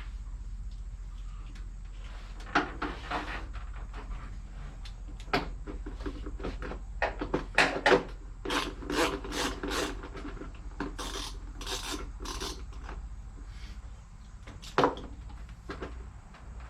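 Hand-tool work on an engine: irregular knocks and clicks with a run of repeated scraping, rubbing strokes in the middle, as a bolted-on part is worked loose. There is a steady low hum throughout.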